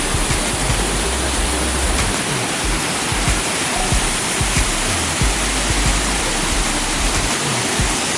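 A waterfall's falling water rushing loudly and steadily, with an intermittent deep rumble underneath.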